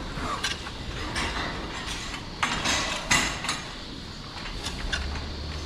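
Cows feeding on hay at a feed fence, with several short rustling and clattering noises, the loudest about halfway through.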